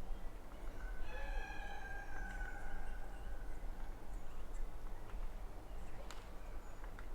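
A rooster crowing once, a single long call that drops slightly in pitch at its end, over a steady low rumble.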